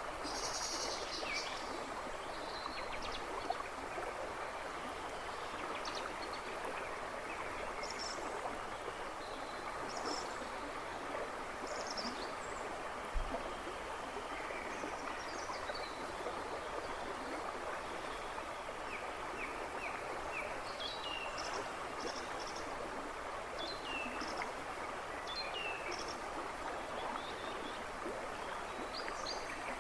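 River babbling and rushing steadily over stones, with songbirds chirping and trilling intermittently in the background. A single brief knock about 13 seconds in.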